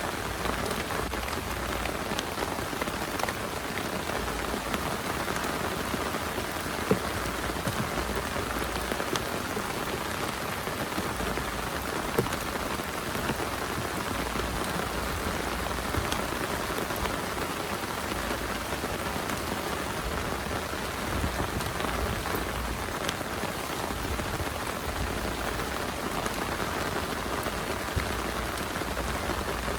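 Heavy rain falling steadily, a dense even hiss with many individual drop hits ticking through it and a few sharper, louder drops.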